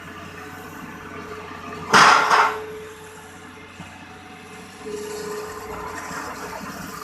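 Excavator's diesel engine running steadily, with two heavy knocks in quick succession about two seconds in. The engine and hydraulic note grows louder from about five seconds in, as the machine works harder.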